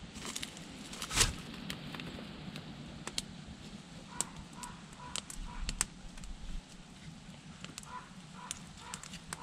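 Faint short honking bird calls in runs of a few, about four seconds in and again near the end, among scattered sharp crackles over a steady low rumble.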